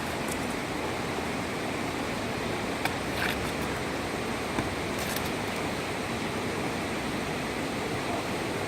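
Whitewater rapids of the Sarapiqui River rushing in a steady, even roar, with a few brief knocks about three and five seconds in.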